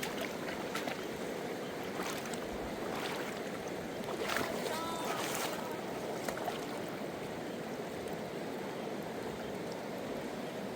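Rushing river water, a steady noise with a few light knocks and clicks and a brief faint squeak about four to five seconds in.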